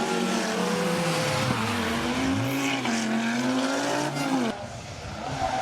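Rally car engine at full throttle, its note falling and climbing again as the car lifts and accelerates. About four and a half seconds in, a sudden cut to another rally car, heard quieter and more distant.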